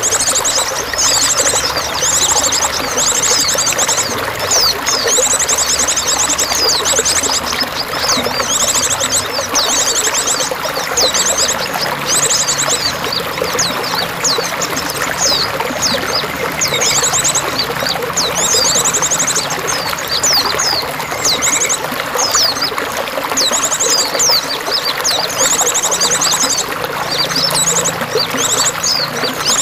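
Water running steadily, like a small stream or cascade, with small birds chirping over it throughout and repeatedly giving short, very high, rapid trills.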